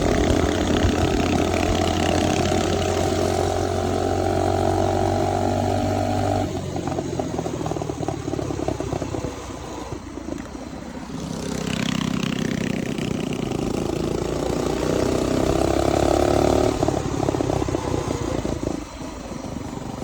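Mini bike's small engine running under throttle as it is ridden, its pitch slowly rising. The engine drops off abruptly about six seconds in, then picks up and climbs again before easing off near the end.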